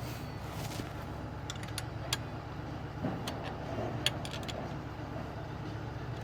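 A truck engine idling steadily, with scattered sharp metallic clicks and clinks of hand tools over it, the loudest about 2 s and 4 s in.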